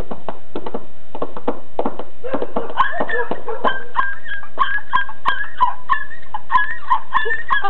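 A person's high, wavering whimpering voice imitating a dying dog, sung along over a hand-made beat of sharp clicks at about three a second. The voice climbs higher about two and a half seconds in.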